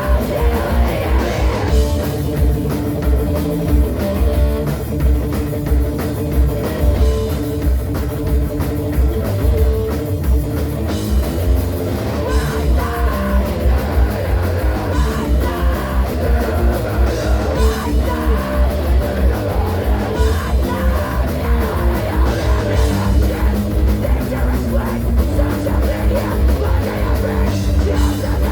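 Live rock band playing loudly: distorted electric guitars, bass and a fast, pounding drum kit, with singing in places.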